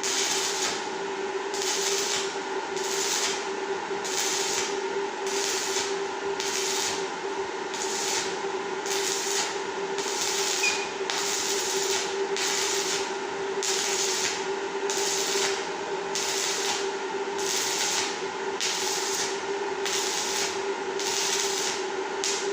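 An electric power tool's motor running steadily, with a rhythmic rasping about twice a second as it works against a surface.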